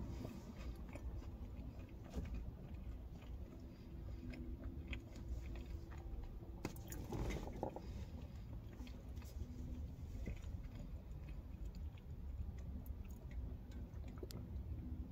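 Close-up chewing of a mouthful of soft biscuits and gravy, with small wet mouth clicks and a brief louder bite or swallow about halfway through, over a low steady hum.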